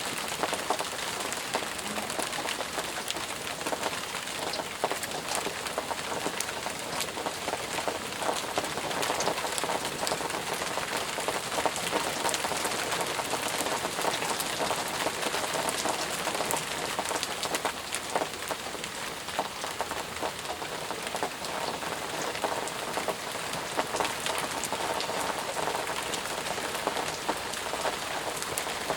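Steady rain falling, with many separate drops pattering on surfaces.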